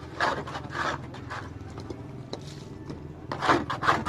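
Repeated scraping strokes of a hand tool working wood, like hand sawing: a few spaced strokes, then a quicker run of about four strokes a second near the end.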